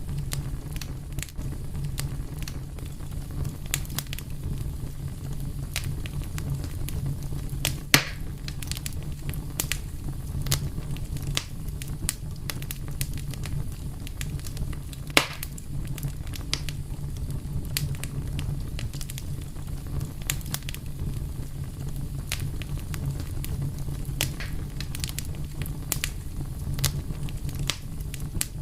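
Wood fire burning, with a steady low rumble and frequent irregular crackles and pops; two louder pops stand out, about eight and fifteen seconds in.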